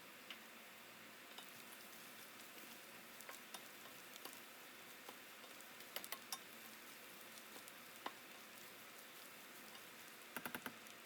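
Faint sizzling of food frying in a pan, with scattered light clicks of a utensil stirring it and a quick run of clicks near the end.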